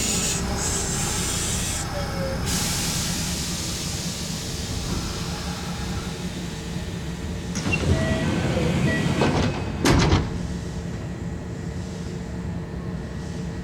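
Kintetsu electric train standing at a station platform with a steady low hum. A high air hiss runs for the first two seconds or so. Between about eight and ten seconds in come louder sliding-door sounds, ending in a knock as a door closes.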